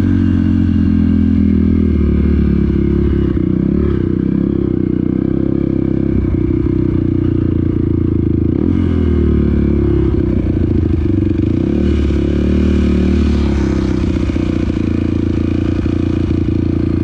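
Off-road motorcycle engine running steadily while riding, its pitch rising and falling a little with the throttle a few times. Light clattering and scraping run over it.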